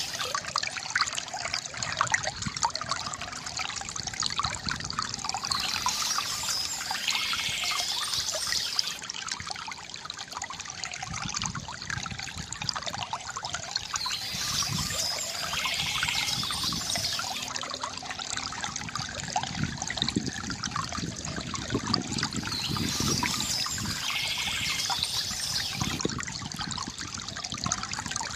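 Stream water trickling and burbling steadily, with birds singing briefly about every eight seconds, three times in all.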